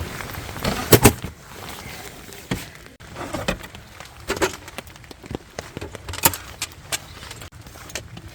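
Irregular knocks, taps and rustling of things being handled, with a sharp double knock about a second in.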